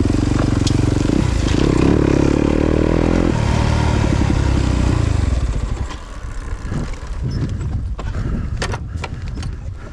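Yamaha YZ250FX's 250 cc four-stroke single-cylinder engine running, with a short rev about a second and a half in. About five and a half seconds in the engine sound drops away, leaving scattered clicks and knocks.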